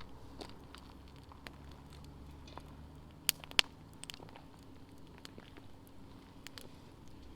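Wood fire crackling in a campfire stand, with scattered small snaps and two sharp pops close together about three seconds in.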